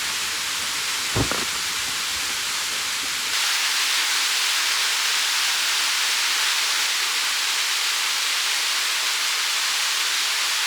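Steady rushing of a mountain stream, with one soft knock about a second in; a little over three seconds in the water noise abruptly becomes louder and brighter.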